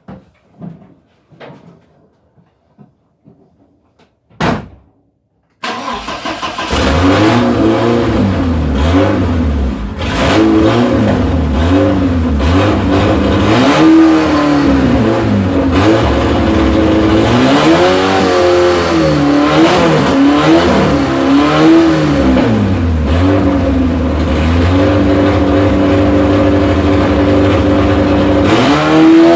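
Opel 2.4-litre stroker inline-four with no muffler, catching on its first start about six seconds in and then running loud, revved up and down again and again. A few faint clicks and one short burst come before it catches.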